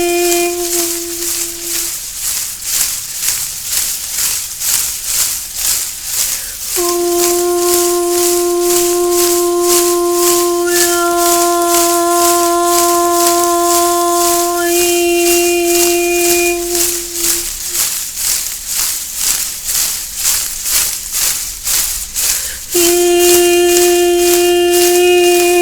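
A rattle or shaker shaken in a steady rhythm, about three shakes a second. Long notes held at one pitch sound over it at the start, for about ten seconds in the middle, and again near the end.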